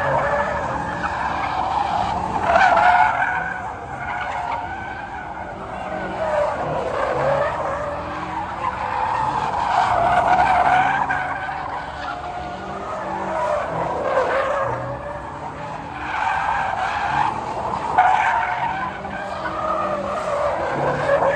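A car spinning donuts, its tires squealing without a break while the engine revs. The screech swells and fades in waves every two to four seconds.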